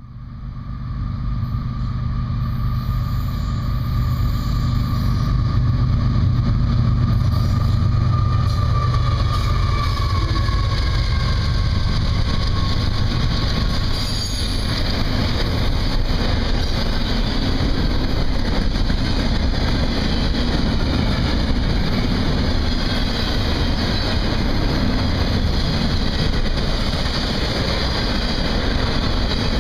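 Double-stack intermodal freight cars rolling past at speed close by: a steady, loud rumble and rattle of steel wheels on rail that builds over the first few seconds and then holds. Faint high wheel squeal rides on top in the first half.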